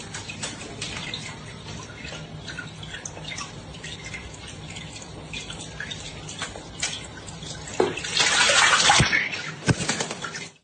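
Water splashing and sloshing, with many irregular small splashes and a louder burst of splashing about eight seconds in.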